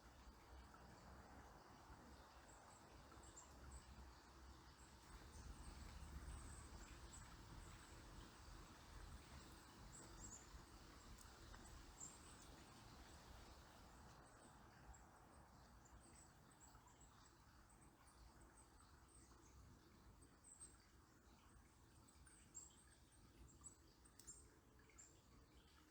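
Faint, very high, thin chirps from small birds, many short calls scattered throughout, over a soft steady river murmur. A low rumble swells about a quarter of the way in and fades again.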